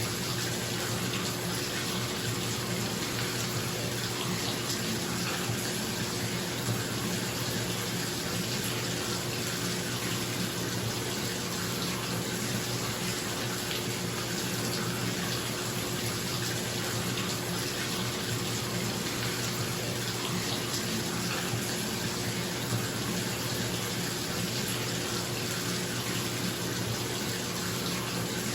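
Bathtub tap running into the tub in a steady, even rush of water, with a bathroom exhaust fan humming underneath.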